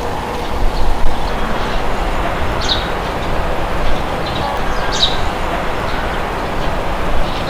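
Steady wind rushing, with short bird chirps scattered through it, the clearest two about a third and two thirds of the way in.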